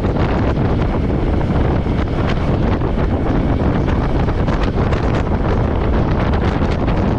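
Wind rushing and buffeting over a helmet-mounted action-camera microphone at riding speed, over the steady running of a Royal Enfield Meteor 350's single-cylinder engine.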